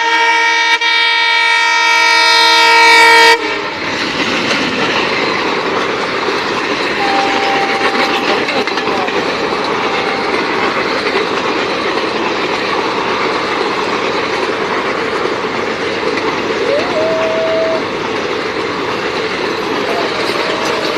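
Locomotive's multi-tone horn blaring, cutting off suddenly about three seconds in, then a train passing at high speed with a loud steady rushing rumble of wheels on rails.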